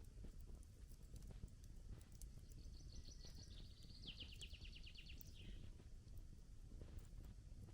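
Faint campfire crackling with a low steady rumble, and a small bird singing a quick high trill that steps down in pitch, lasting about three seconds midway through.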